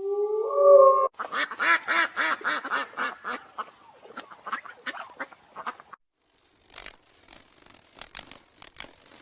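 Duck quacking: a short call, then a rapid run of quacks, about five a second, that fades away over several seconds. Faint clicks and rustles follow.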